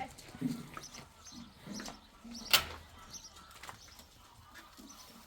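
Birds calling, with short low coos and brief high chirps, and one sharp knock about halfway through.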